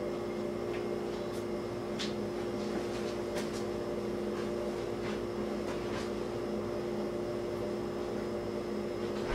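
Steady hum of an appliance or air conditioning filling the room, with a few faint footsteps moving away.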